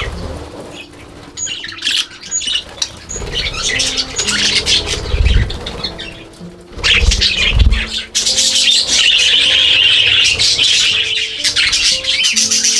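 A budgerigar flock chattering and chirping continuously, growing denser and louder about two-thirds of the way through, with wings flapping as young budgies move about. Soft background music runs underneath.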